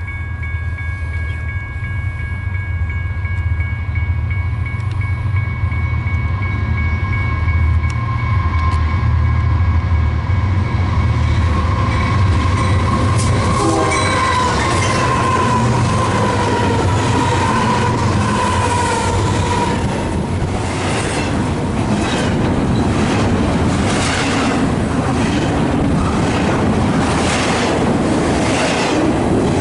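Union Pacific freight led by a GE AC4400CW diesel locomotive rumbling up and passing close by, a steady horn-like chord sounding over the first dozen seconds. After the locomotives go past, about halfway through, double-stack container cars roll by with a regular clickety-clack of wheels over rail joints.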